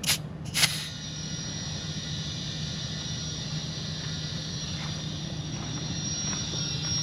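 Air hissing into a repaired trailer tire through a valve chuck: two short blasts of air at the start, then a steady hiss with a thin high whistle, growing a little louder near the end, over a steady low hum. Only enough air is going in to keep the tire's bead seated.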